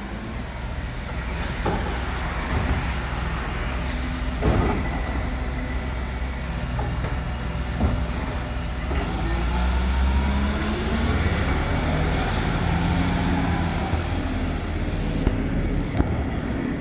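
Kerbside organics collection truck's diesel engine running steadily, revving up and back down about two-thirds of the way through, with a few sharp clunks near the start.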